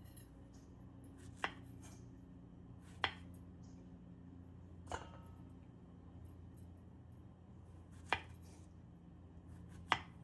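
Knife cutting down onto a cutting board, five separate cuts a second or two apart, over a steady low hum.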